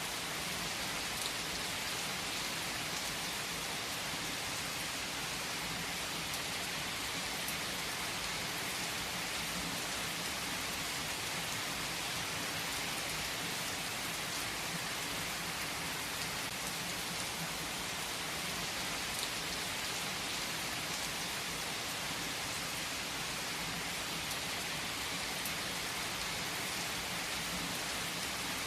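Steady rain falling on a surface: an even, unbroken hiss of many drops that keeps the same level throughout, with no thunder clap or rumble standing out.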